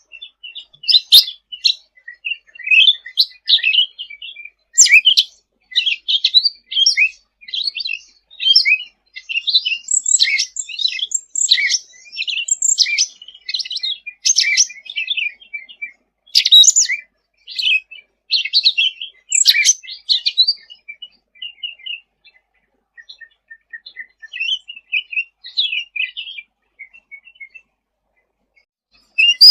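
A cucak ranting (cucak rante) songbird singing busily in rapid, varied chirping and twittering phrases, then thinning to scattered softer phrases in the last few seconds.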